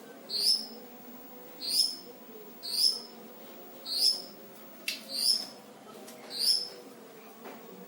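A bird kept as 'selendang biru' calling loudly in full voice: six short, high calls about one and a quarter seconds apart, each sliding quickly downward. A steady low hum runs underneath.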